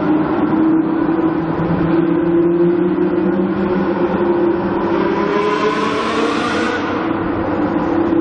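Supercar engine running with a steady note that slowly rises in pitch. A rushing hiss swells about five seconds in and fades near seven seconds.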